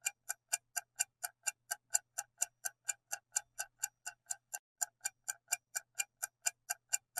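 Clock-style ticking from a quiz countdown timer sound effect, a steady tick about four times a second.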